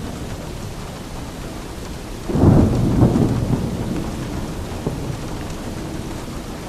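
Steady rain with a clap of thunder a little over two seconds in: a sudden deep rumble that peaks twice and dies away over about two seconds.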